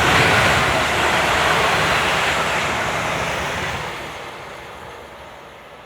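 London Northwestern Railway electric passenger train passing at speed: a loud rush of wheel and air noise that holds for about three and a half seconds, then fades away as the train recedes.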